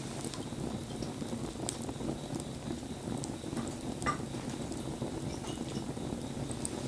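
Wood bonfire burning: a steady low rustle of flames with scattered sharp crackles and pops from the burning wood, the loudest about a second and a half and four seconds in.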